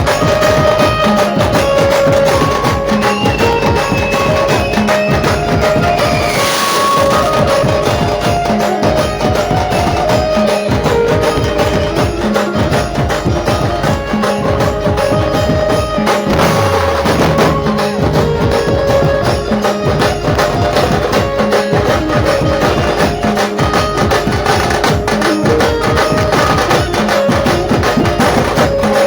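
Dhumal band playing loud amplified music through a sound system, with steady heavy drumming and a melody over it.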